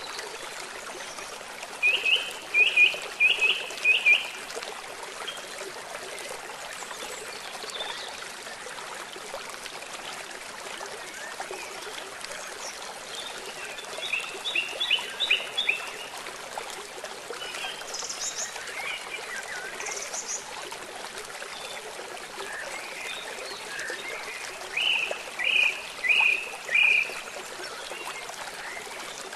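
Steady rush of flowing river water and rain, with three bursts of four or five quick, high chirping calls: about two seconds in, midway, and near the end.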